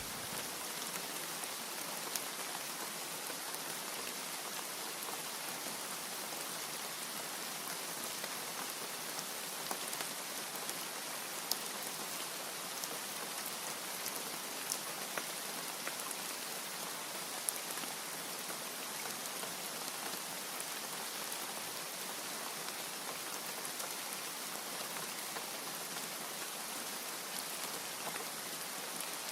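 Steady rain falling, an even hiss of drops with a few sharper single drop hits standing out now and then.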